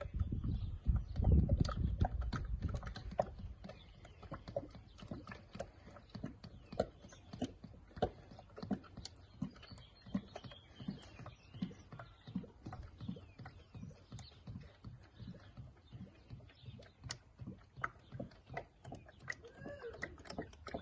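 Motor oil poured from a quart bottle through a funnel into the engine's filler: a louder rush in the first few seconds, then a steady run of glugs about two a second as air gulps back into the bottle.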